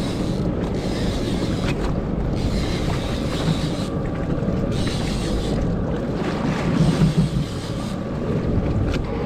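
Steady wind buffeting the microphone, gusting on and off, over a low rumble of water around a small boat.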